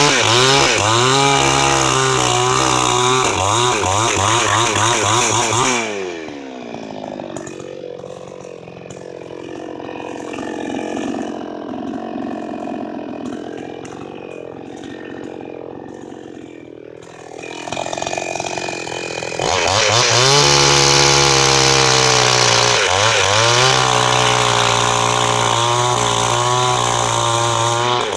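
Two-stroke chainsaw running at high revs, its engine pitch wavering up and down as it works. About six seconds in it drops back to a quieter idle for roughly twelve seconds, then is revved up again and runs at high speed to the end.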